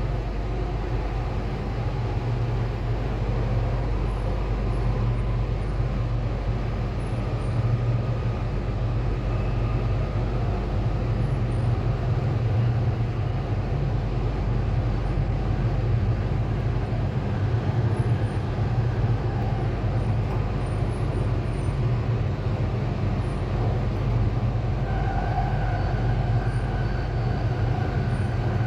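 Sydney Metro driverless train running on the line, heard from inside the carriage: a steady low rumble and hum of the ride, with a faint higher whine coming in near the end.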